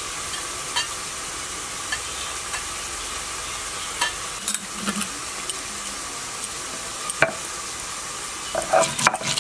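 Steady sizzle of prawns frying in mustard oil in a kadai, with a few light clicks scattered through and a cluster of louder knocks near the end.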